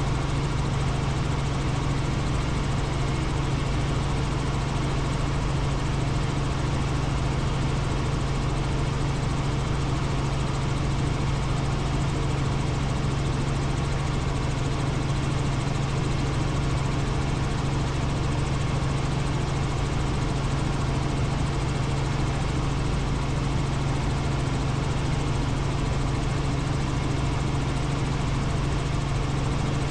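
Helicopter in steady flight: a continuous engine and rotor drone with a strong, unchanging low hum.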